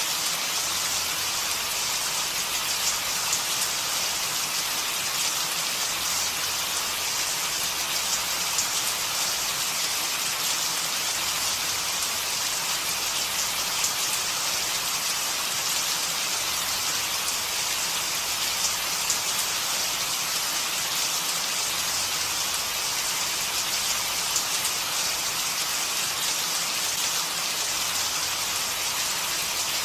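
Steady rain falling, an even hiss with the patter of drops striking a surface.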